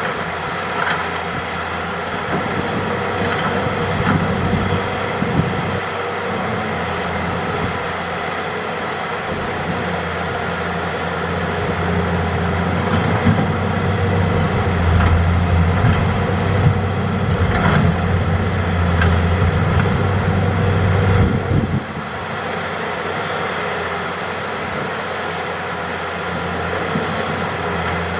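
Hitachi hydraulic excavator's diesel engine running steadily under working load, growing louder for about ten seconds in the middle and then easing off suddenly, with a few faint knocks.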